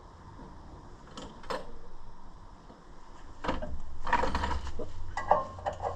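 Hand tools working on a tractor's bolts: a couple of light metal clicks, then from about halfway a louder stretch of metal scraping and clattering with quick repeated clicks.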